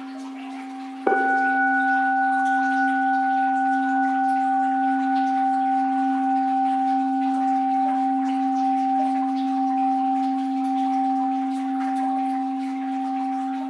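Orin, a Japanese Buddhist bowl bell, struck once about a second in, then ringing on with several steady overtones and a slow pulsing wobble as it fades gradually.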